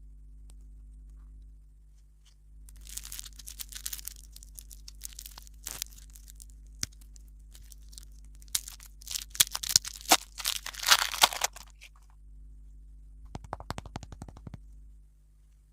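Close-up crackling, crinkling and crunching in several bursts, loudest from about eight and a half to eleven and a half seconds in.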